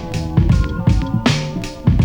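A sampled hip-hop beat from an E-mu SP-1200: kick and snare drums in a steady pattern, with a strong snare crack about every second and a half, over held bass notes and a looped melodic sample.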